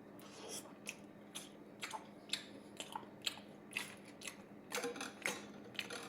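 Chewing a bite of Great Value microwave pepperoni pizza, with sharp crunches about twice a second from its hard, crispy crust edge. A faint steady hum runs underneath.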